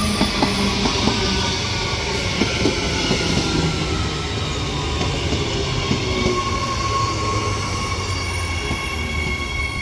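Electric suburban passenger train moving through a station, wheels clicking over rail joints in the first few seconds, with high whining tones that slowly fall in pitch.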